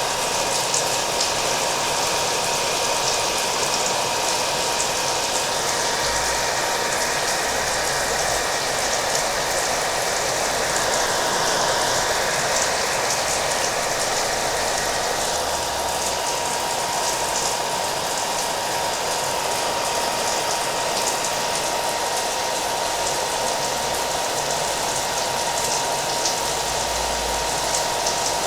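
Hair dryer running steadily with a constant whine, layered with the sound of rain.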